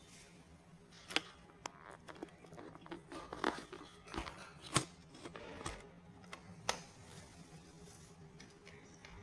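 Small plastic building-block pieces being handled and clicked together: an irregular run of sharp clicks and light rustling, loudest around the middle and dying away in the last couple of seconds.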